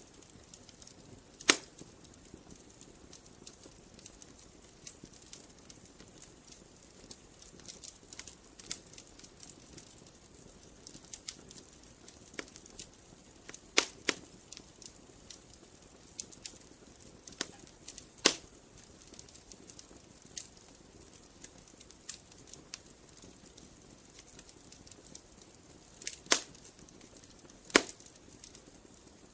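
Wood campfire crackling: a steady scatter of small ticks and pops over a faint hiss, with several louder sharp snaps spread through.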